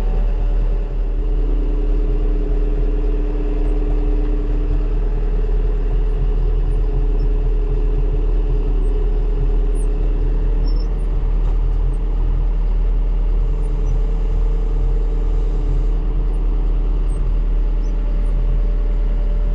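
Vehicle engine running steadily with a low rumble and a steady hum.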